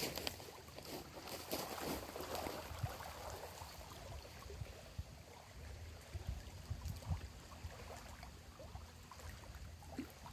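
Small waves lapping gently at a lakeshore, with soft splashes and a few low thuds.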